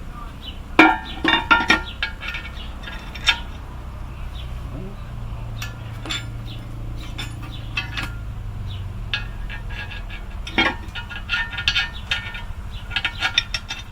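Steel clinking and knocking in short clusters as a homemade half-inch steel plate bracket and its bolts are handled and fitted, with a steady low rumble underneath. There is a group of clinks about a second in, a single knock around three seconds, and a busier run of clinks near the end.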